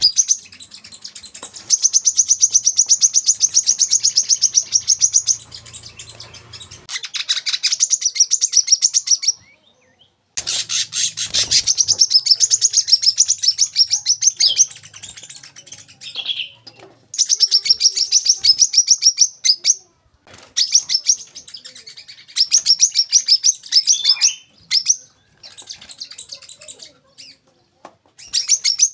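Brown-throated sunbird (kolibri kelapa) singing: rapid, high-pitched chattering trills of many quick notes, in bouts of a few seconds broken by short pauses.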